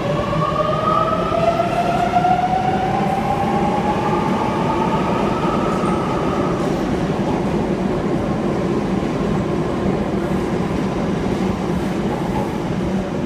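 Sydney Trains M set (Millennium train) electric multiple unit accelerating away from the platform. Its traction motors whine, rising in pitch for about six seconds, then fade under the steady rumble of the wheels and cars rolling past.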